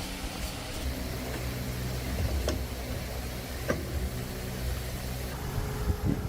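Small petrol engine running at a steady speed, with a few sharp knocks over it.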